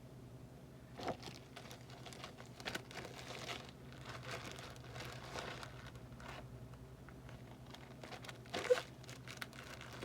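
Paper and craft supplies rustling and crinkling as they are handled and tidied on a work surface, with light taps and one sharper knock about a second before the end.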